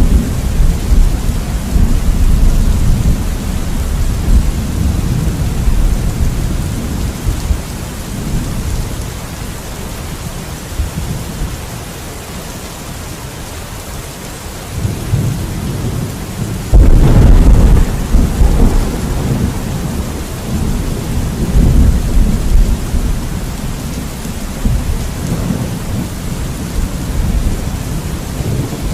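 Thunderstorm: steady rain with rolling thunder. A low rumble dies away over the first dozen seconds, then a sudden loud thunderclap a little past halfway rolls on into rumbling.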